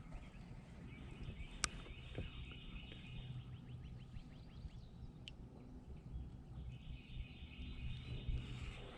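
Faint outdoor ambience with birds trilling and a steady low rumble underneath. A single sharp click comes about one and a half seconds in.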